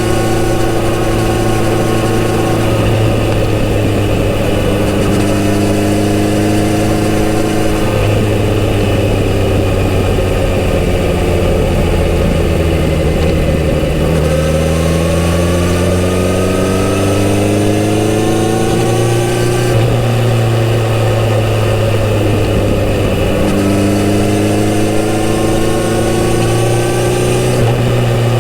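Kawasaki Z900RS's inline-four engine with its stock exhaust, heard while riding. The engine note holds and sags at first. About halfway through it climbs under acceleration, drops sharply at a gear change, then climbs again near the end.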